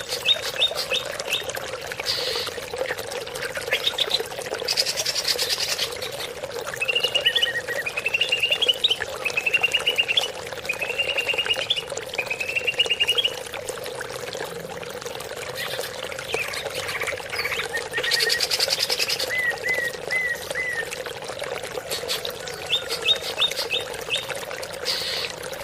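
Greater green leafbird (cucak ijo) singing in varied phrases: quick high trills, a run of five rising trilled notes, and short chirped notes, over a steady sound of running water.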